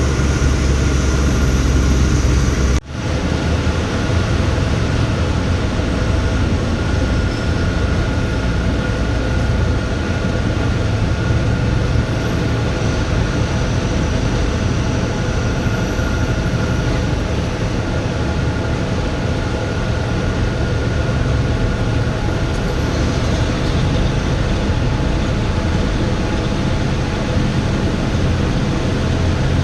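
Tata Signa trailer truck on the move: steady engine drone with road noise. About three seconds in the sound drops out for a moment, then the same steady running carries on.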